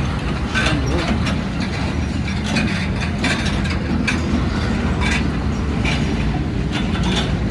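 Heavy truck on the move: a steady low rumble of engine and road, with repeated clattering knocks.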